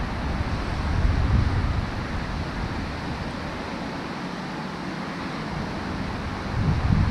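Wind buffeting the microphone in gusts, a low rumble that eases in the middle and picks up again near the end, over a steady hiss.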